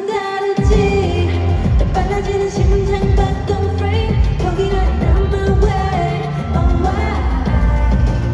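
K-pop song with female singing over a heavy bass beat; the bass kicks in about half a second in.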